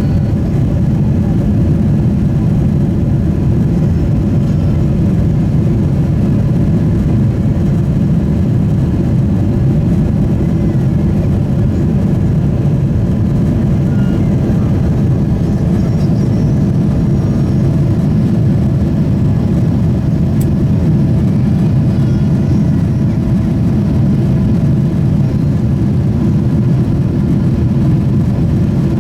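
Cabin noise of a Boeing 777-300ER: a loud, steady low rumble of the GE90 engines and rushing air, unchanging throughout.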